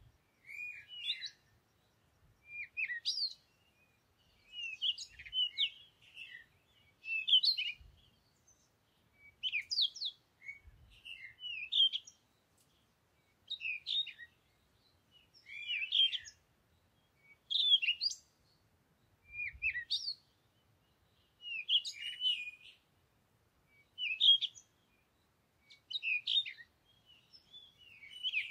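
Bird song: short chirping phrases repeating about every two seconds.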